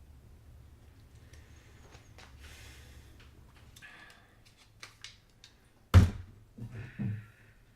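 A few faint rustles and clicks, then one loud thump about six seconds in, followed by two softer thuds.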